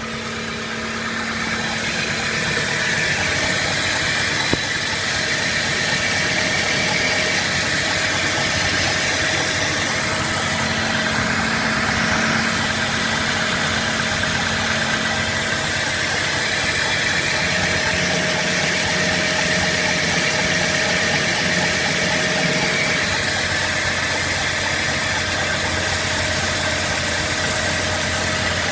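BMW E90 running at idle with a steady rustling noise whose cause the owner cannot identify.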